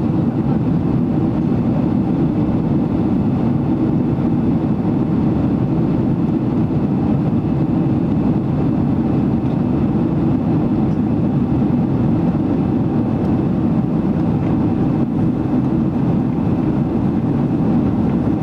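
Steady drone of a Boeing 767-300ER cabin in flight: engine and airflow noise, deep and even throughout.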